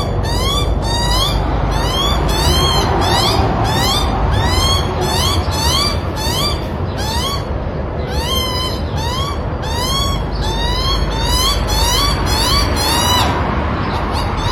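Young birds begging: short rising calls repeated about twice a second throughout, over a steady low rumble.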